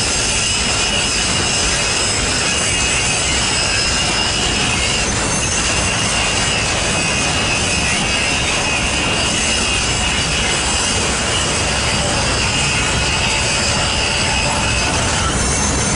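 BNSF eastbound intermodal freight train rolling past: a steady, loud rush of steel wheels on rail with a constant high-pitched whine over it.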